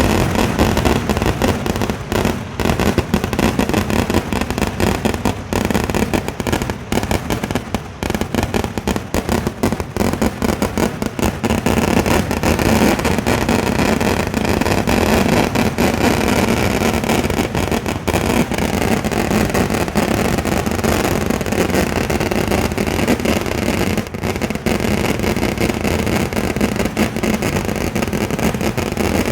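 A dense barrage of firecracker bangs from a Kerala temple-festival fireworks display. For about the first twelve seconds it is a rapid, continuous crackle of separate blasts; after that it merges into a steady rumble of explosions.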